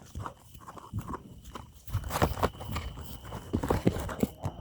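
A person moving about and handling things: irregular scuffs and knocks, sparse at first and busier from about two seconds in.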